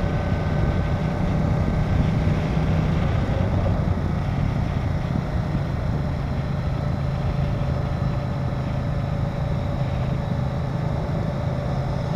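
Ducati Diavel's L-twin engine running steadily at low road speed, its note dropping a little about three seconds in, over a steady rush of wind and road noise.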